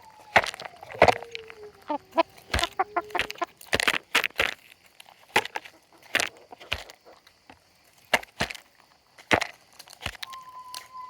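Chickens pecking at food: sharp, irregular taps, several close together at times. A hen gives a long call that slides down in pitch during the first three seconds, and another begins near the end.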